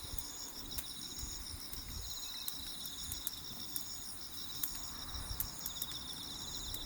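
Insects chirping in steady pulsed trills, with faint sharp ticks here and there.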